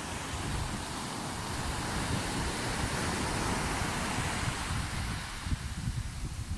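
Sea surf: a wave washes in, its hiss building to a peak about halfway through and then easing off, with wind buffeting the microphone in low gusts.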